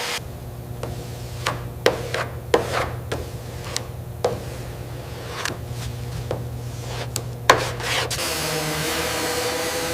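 Hand-tool work on car parts: about a dozen scattered clinks and knocks with some rubbing, over a steady low hum. About eight seconds in, a steady hissing machine noise takes over.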